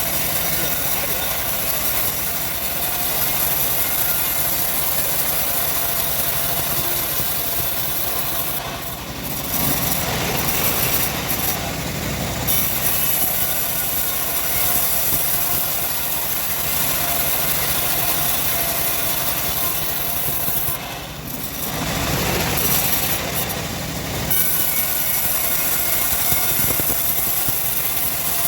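Homemade engine-driven bandsaw mill running and sawing through a log, a steady engine note under the rasp of the blade in the wood. The sound eases briefly twice, about a third and three-quarters of the way through.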